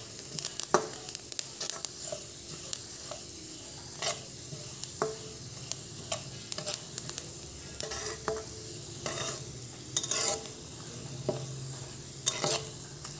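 Split mung dal frying in a little oil in a kadai, with a steady light sizzle under many short scrapes and clicks of the spatula stirring the grains against the pan; a longer, louder scrape comes about ten seconds in. The dal is being lightly fried until pale golden.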